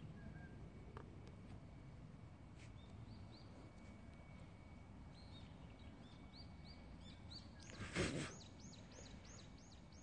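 A small bird chirping in a series of quick, high, rising-and-falling chirps, sparse at first and coming several a second in the last few seconds, over faint steady outdoor background noise. A short noisy burst about eight seconds in.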